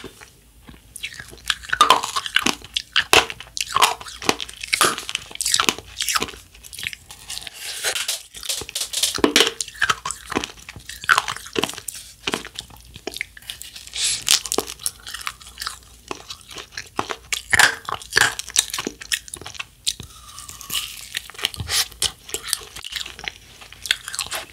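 Close-up eating sounds: a mouthful of sorbet coated in crunchy galaxy candy sprinkles being chewed, with a steady run of crisp crunches throughout.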